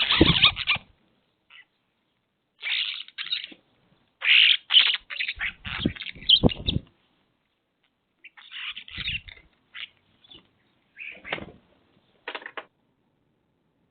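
Birds making irregular short bursts of harsh, noisy sound, in clusters with brief silent pauses between.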